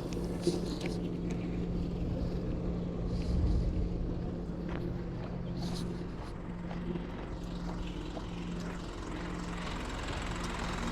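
Diesel engine of a 2020 GMC box truck (Isuzu NPR platform) idling with a steady low hum.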